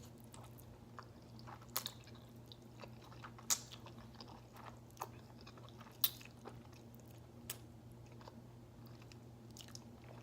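A person chewing ramen noodles close to the microphone, with about four sharp clicks a couple of seconds apart over a steady low hum.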